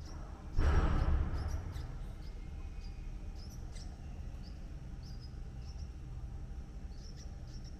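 Small birds giving short, high chirps scattered throughout over a low steady rumble, with a brief loud rustling whoosh about half a second in that fades away within a second or so.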